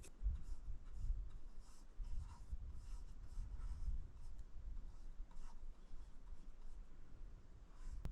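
Flat paintbrush scrubbing thin oil paint onto a canvas in short, irregular strokes, over a low rumble.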